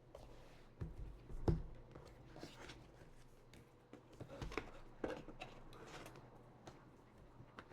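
Hands handling an iPad box and its packaging: scattered light taps, clicks and rustles of cardboard and paper, with a louder knock about a second and a half in.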